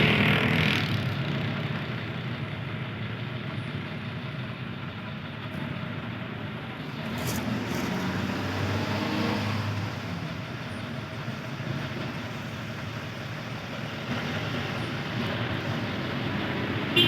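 Road traffic passing: engine and tyre noise from vehicles going by. It is loudest at the start as one passes and fades, then swells again briefly partway through.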